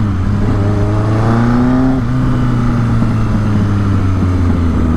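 1983 Suzuki GS1100E's air-cooled inline-four engine running under way: the revs climb for about two seconds, drop sharply at a gear change, then slowly ease off.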